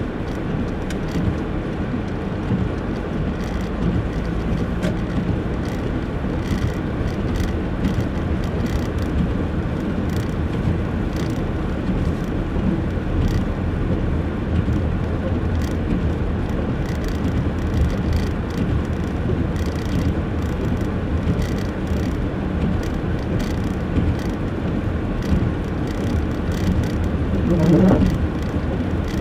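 Steady low road and engine rumble of a car driving slowly through snow. Near the end there is a brief, slightly louder sound with a wavering pitch.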